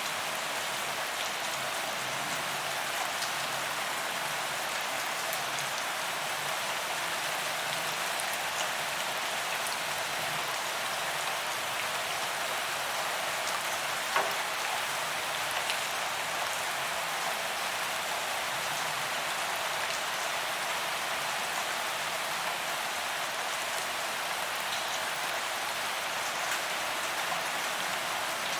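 Steady rain falling on paved ground, an even hiss with scattered drop ticks and one sharper drop or splash about halfway through.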